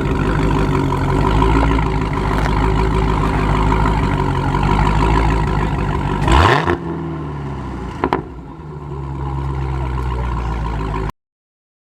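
Car engine running, revved once about six seconds in with a quick rising sweep before dropping back. There is a sharp click a little later, and the sound stops abruptly near the end.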